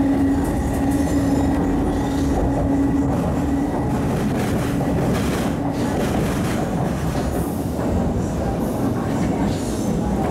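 MTR East Rail line MLR electric multiple unit running along the track, heard from inside the passenger car: a steady rumble of wheels on rail with a steady traction motor hum that fades out about three seconds in.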